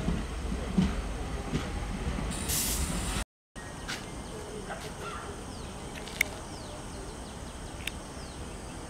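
Passenger train coaches rolling past on the rails with a steady low rumble and a short hiss at the end. After a sudden break, quieter open-air ambience with a few short bird chirps and a single sharp click.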